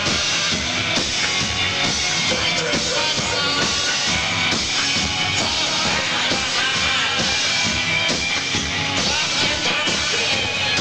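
Rock band playing live, the drum kit keeping a steady beat under the instruments.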